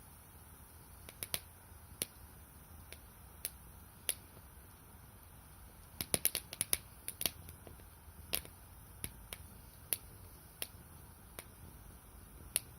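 Firewood crackling as it burns in a small wood-burning camp stove: irregular sharp pops and snaps, with a quick run of them about six to seven seconds in.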